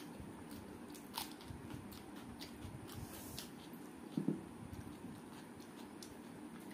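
Close-up eating sounds: chewing and crunching with a few sharp crisp clicks, over a steady low background hum. A single dull knock about four seconds in is the loudest sound.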